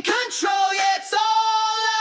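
Song vocal: a singing voice gives a few short notes, then holds one long note from about a second in, over the backing music.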